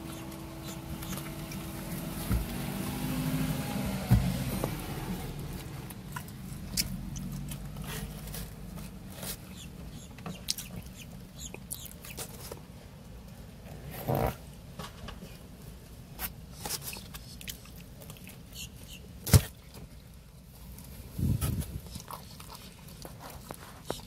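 A person chewing and biting pizza close to the microphone: many small wet mouth clicks and smacks, with a few sharper knocks. A low hum fades out over the first few seconds.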